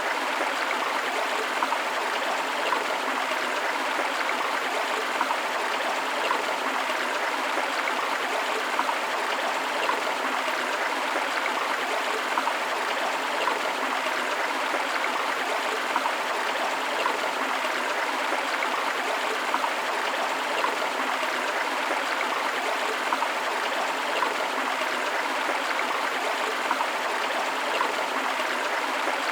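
A river flowing over rocks, a steady, even rush of water with a fine bubbling texture and no breaks.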